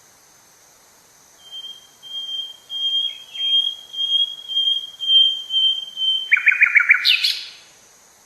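A bird singing: a series of level, clear whistled notes growing louder, then a quick rattle of falling notes and a short rising rasp near the end.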